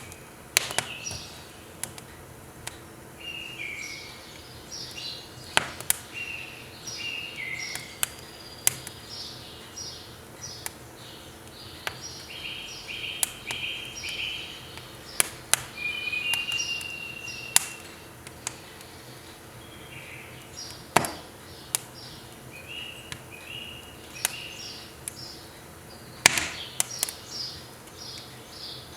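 Burning firewood crackling, with sharp pops every second or two, under birds calling in runs of short repeated chirps.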